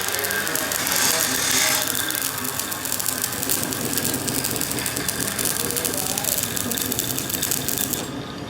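Rapid mechanical clicking and rattling, a dense run of clicks that stops shortly before the end.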